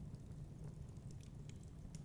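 Fireplace crackling: scattered sharp little pops and snaps over a steady low rumble.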